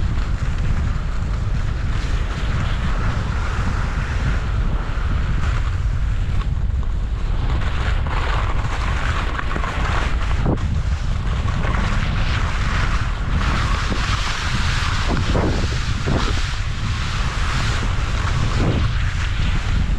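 Wind buffeting the microphone with a steady low rumble, over a continuous hiss of skis moving across refrozen crusty snow, with a few short scrapes in the second half.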